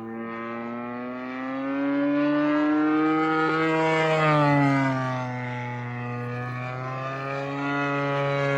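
DLE 55cc single-cylinder two-stroke gas engine of a radio-controlled airplane running in flight. Its pitch and loudness climb to a peak about four seconds in, then the pitch drops sharply as the plane passes and flies away.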